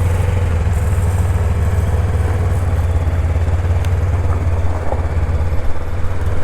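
Honda NX500 parallel-twin motorcycle engine idling steadily with a low hum.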